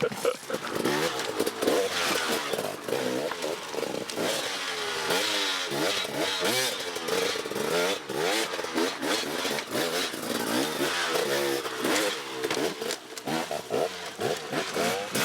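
Off-road motorcycle engine revving hard, its pitch repeatedly rising and falling as the throttle opens and closes.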